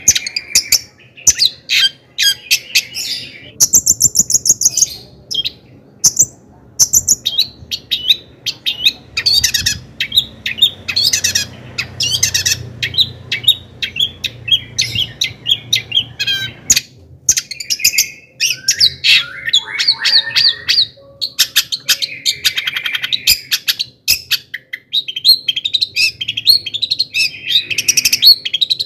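Long-tailed shrike (cendet) singing in a fast, varied, nearly continuous run of chirps, trills and harsh notes, mixing in imitations of other birds' calls.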